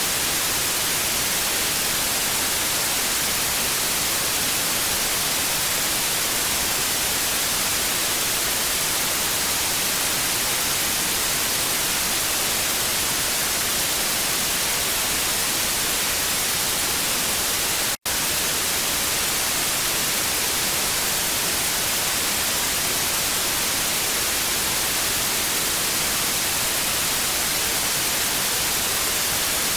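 Steady TV static hiss, strongest in the high frequencies, with one split-second dropout about eighteen seconds in.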